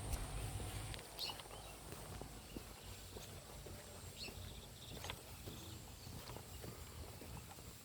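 Faint outdoor ambience: wind rumbling on the microphone, easing about a second in, with a few short bird chirps and soft scattered clicks.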